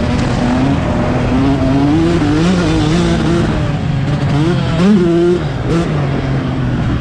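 Single-cylinder two-stroke engine of a 2011 Yamaha YZ125 motocross bike running under throttle, its pitch rising and falling with throttle and gear changes, with a sharp rev peak about five seconds in.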